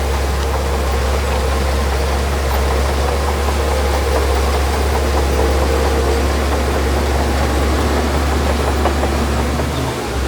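Heavy earthmoving machine's diesel engine running steadily with a deep drone, dipping briefly near the end.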